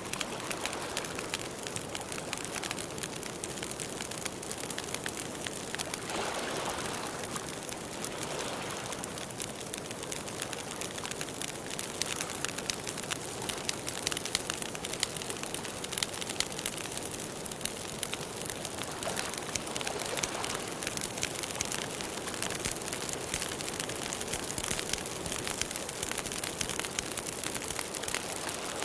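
Steady water sound: an even hiss with many tiny clicks and splashes throughout.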